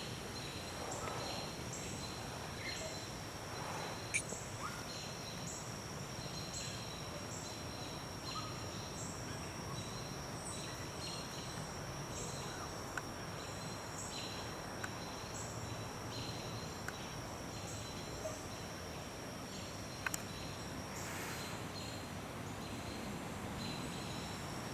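Evening woodland chorus of insects and birds. A steady, high insect drone runs through, with a faint high chirp repeating about once a second, and scattered short bird calls. Sharp clicks come about four seconds in and again about twenty seconds in.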